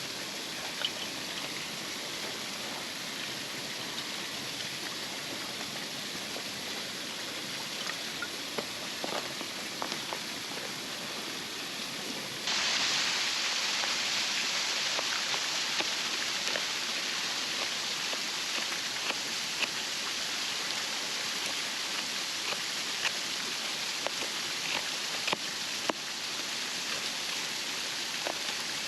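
Steady rush of a waterfall's falling water, with faint scattered ticks over it. It steps up louder and brighter about twelve seconds in.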